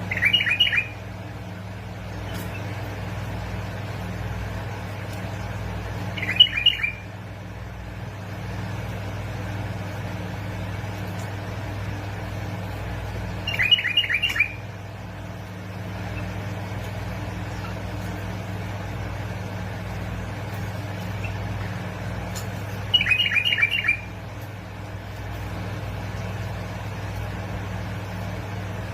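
Bulbul singing: four short, quick phrases, each about a second long and spaced several seconds apart, over a steady low hum.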